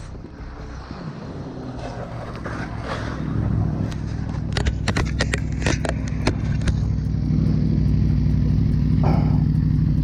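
Motorcycle engine running at a steady pitch, growing gradually louder, with a quick run of sharp clicks and knocks about halfway through.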